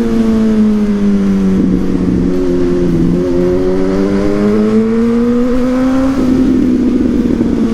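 Suzuki GSX-S1000's inline-four engine through a Yoshimura R-11 exhaust under way. The revs ease off, then climb again for a few seconds. Near the end the throttle closes and the exhaust crackles and pops.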